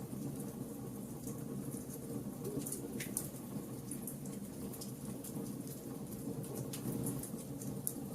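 Wood fire burning: a steady low rumble of flames with many small, irregular crackles and pops from the burning wood, a couple of sharper pops along the way.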